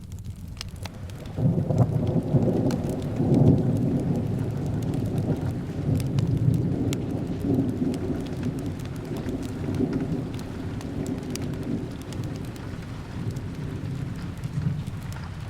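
A long rolling rumble of thunder breaks in about a second and a half in and slowly fades, over steady rain. Sharp little crackles from a fireplace are scattered throughout.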